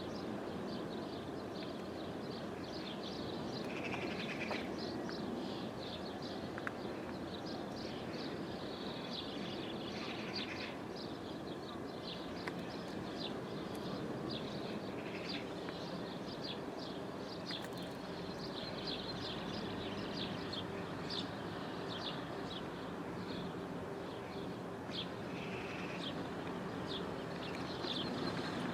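Outdoor ambience of birds chirping: many short, high chirps keep coming over a steady background hiss.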